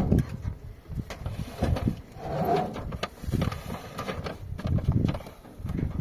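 Irregular knocks, bumps and clicks of hard objects being handled and set down.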